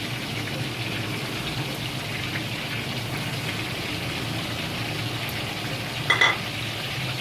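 Tomato-onion masala sizzling steadily in the pan as fried koftas are set into it, with a brief sharp sound about six seconds in.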